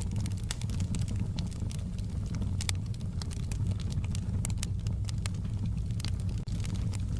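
Campfire burning: frequent sharp, irregular crackles and pops of the wood over a steady low rumble of the flames.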